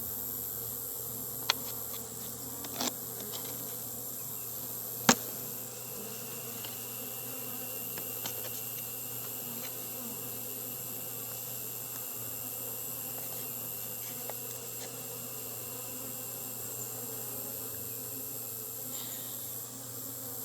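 Honeybees buzzing steadily around an open hive, with a few light clicks and one sharper knock about five seconds in.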